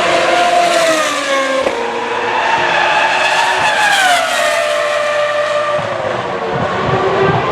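Toro Rosso STR1's 3.0-litre V10 Formula One engine running hard: its high-pitched note climbs, drops sharply once about a second and a half in like a gear change, climbs again, then falls steadily for about three seconds before rising again near the end.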